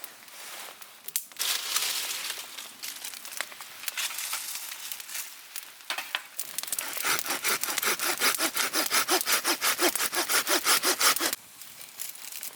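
Hand saw cutting through firewood: uneven scraping strokes at first, then a fast, even run of strokes, about six a second, that stops suddenly near the end.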